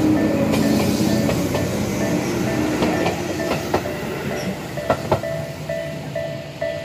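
Electric commuter train running past at a level crossing, its rumble easing off, with sharp clacks of the wheels over rail joints. Throughout, the crossing's warning bell rings in a steady repeating two-tone clang, heard more clearly near the end as the train noise drops.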